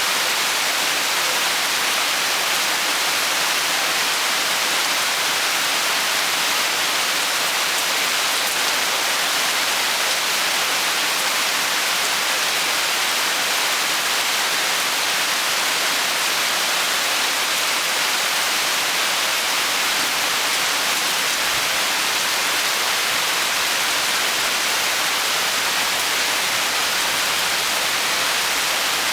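Steady rain falling, an even hiss of drops with no breaks or single distinct hits.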